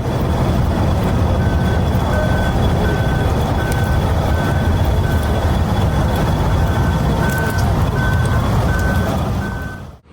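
Heavy vehicle engine running with a loud rumble while a reversing alarm beeps evenly, a little under twice a second, starting about a second and a half in.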